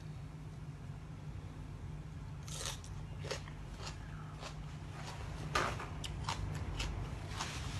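A person chewing and crunching food close to the microphone, with irregular crisp crunches starting a couple of seconds in. A steady low hum runs underneath.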